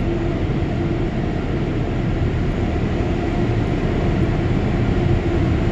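Car wash air dryers blowing on the car, heard from inside it: a steady, loud rush of air with a low hum that grows slightly louder.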